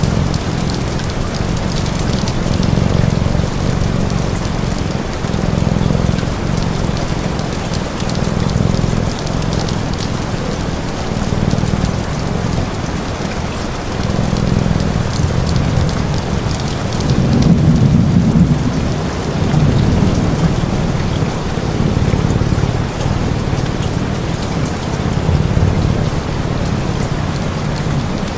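Steady rain falling on a surface, mixed with a deep low rumble that swells and fades every second or two and scattered sharp crackles.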